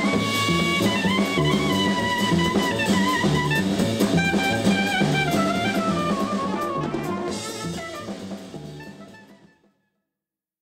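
Jazz with a drum kit and a lead melody line, fading out over the last few seconds to silence.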